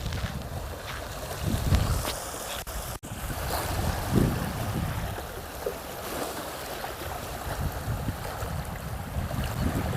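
Wind gusting against the microphone in uneven low rumbles over the steady wash of sea waves. The sound briefly cuts out about three seconds in.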